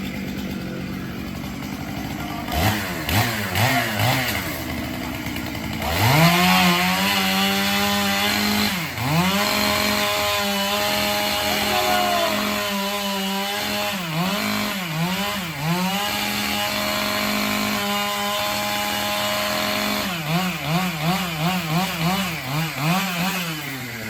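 Chainsaw engine revving: a few short throttle blips, then held at high speed for long stretches with brief dips in pitch, as when it bogs under load cutting into the tree, and a quick series of blips near the end.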